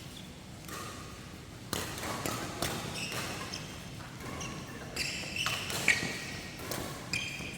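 Badminton doubles rally: rackets striking the shuttlecock in sharp cracks, the loudest about six seconds in, with players' shoes squeaking on the court floor.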